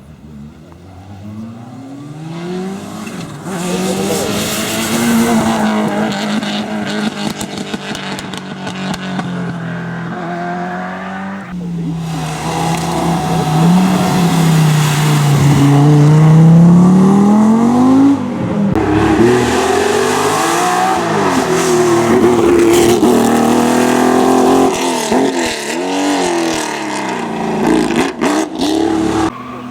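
Rally car engines revving hard and passing at speed, across several short clips cut together. The engine pitch climbs and drops with each gear change and pass.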